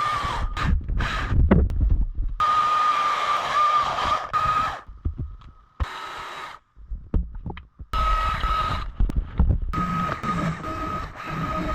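Chainsaw running and carving into wood, a steady high whine over a rough low rumble, in several stretches with a few sudden breaks.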